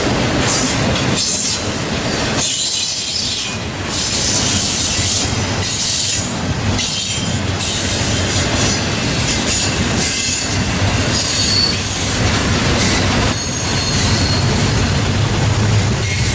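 Freight train cars rolling past with steady rumble and rail noise, wheels squealing in thin high tones that grow stronger near the end.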